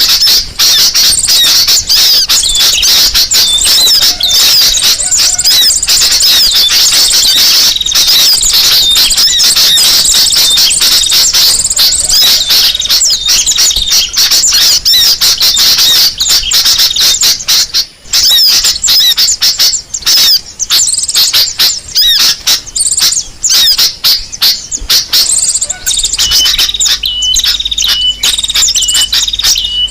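Bird-lure recording of crimson sunbird (kolibri sogok ontong) calls, mixed with sooty-headed bulbul calls, playing loud and without a break: a dense stream of rapid high-pitched chirps and twitters. Near the end a run of short, evenly repeated notes joins in.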